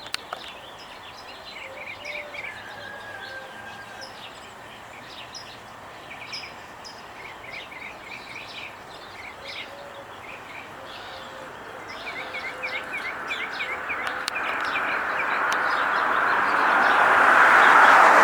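Small birds chirping and trilling repeatedly over a steady outdoor hiss. In the second half the noise of an approaching vehicle grows steadily louder until it drowns the birds near the end.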